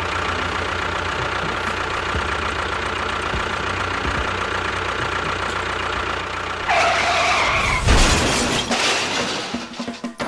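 A small motor running steadily with a fast, even chugging, joined about seven seconds in by a louder, harsher wavering sound that fades out near the end.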